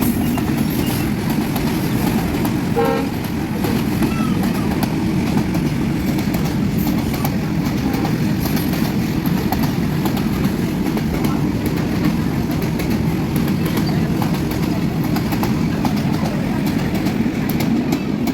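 Freight train passing on the rails: a loud, steady rumble of wagons and wheels with no let-up. A brief pitched sound comes about three seconds in.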